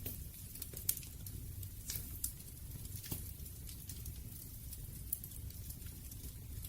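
Wood campfire burning: a steady low rumble of flame with irregular crackles and sharp pops from the burning wood, a few louder pops scattered through.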